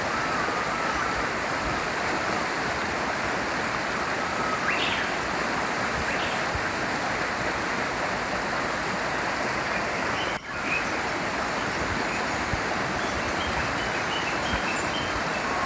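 A brook flows steadily, with small songbirds chirping now and then over it. There is a quick rising call about five seconds in and a run of short high chirps in the last few seconds. The sound drops out for an instant about ten seconds in.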